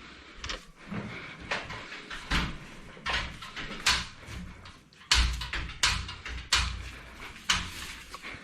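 Irregular knocks, thuds and scrapes from an anti-vibration stand being adjusted under a front-load washing machine, about ten hard knocks with scraping in between.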